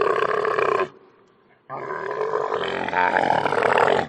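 An animal calling: a long, rough call that ends just under a second in, then a second long call from a little under two seconds in until near the end.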